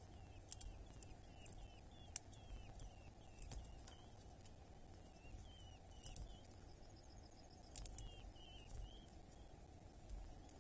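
Faint series of short, thin bird calls, two or three a second, in several runs with pauses between. Scattered sharp clicks and scratches sound among them.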